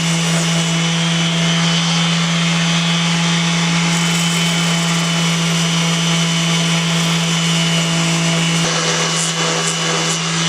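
Electric sander running at steady speed, its abrasive grinding against the hard adhesive seam of a 3D-printed plastic part, with a constant motor hum under the scraping noise.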